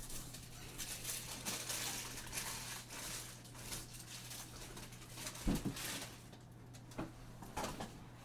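Handling noise on a tabletop: rustling for the first few seconds, then a few light knocks and taps, over a steady low electrical hum.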